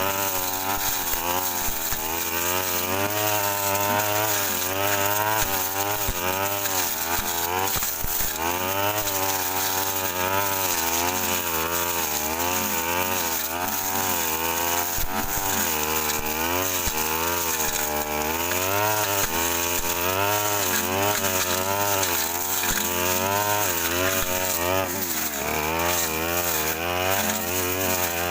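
Brush cutter engine running at high revs, its pitch wavering up and down continually as the blade bites into dense overgrown brush.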